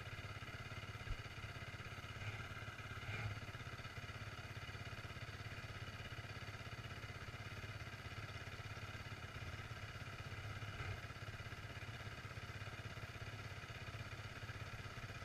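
Off-road motorcycle engine idling steadily.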